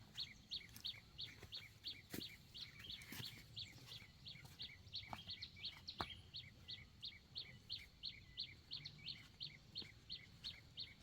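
A bird chirping a short, high call over and over, about three times a second at a steady, even pace, with a few faint knocks now and then.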